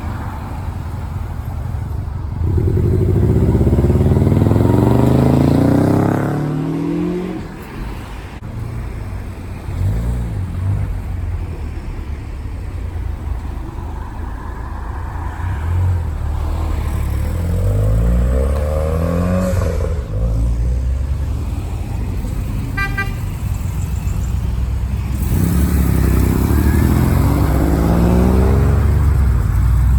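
Cars driving past one after another, their engines accelerating with rising pitch, the loudest pass a few seconds in and more passing later on. A short horn toot sounds about two-thirds of the way through.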